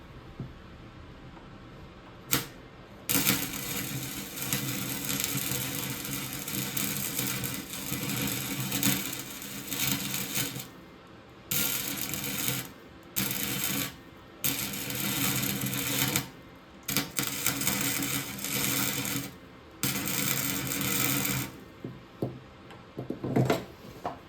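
Electric welder arcing in crackling bursts: one long run of about seven seconds, then a string of shorter ones with pauses between them, as it tack-welds a bracket onto a clutch tube.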